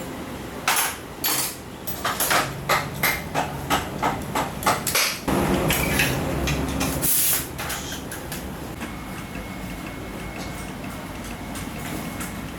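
A series of sharp knocks, about ten in four seconds and irregularly spaced, like a hand tool striking hard parts. Then about two seconds of steadier, rumbling noise.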